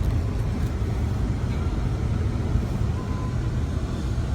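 A car running, heard from inside the cabin as a steady low rumble of engine and road noise.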